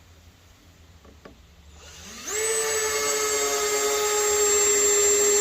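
Cordless drill speeding up with a rising whine about two seconds in, then running at a steady high pitch for a few seconds, as when driving a deck screw.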